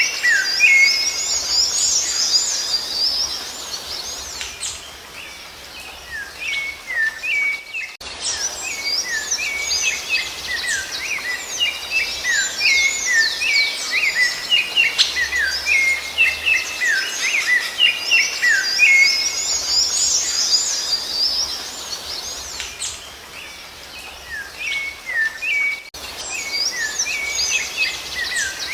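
Birdsong presented as the song of the rufous-bellied thrush (sabiá-laranjeira): a dense run of quick chirps and whistled up-and-down glides, thinning out twice. The sound breaks off abruptly about eight seconds in and again near the end.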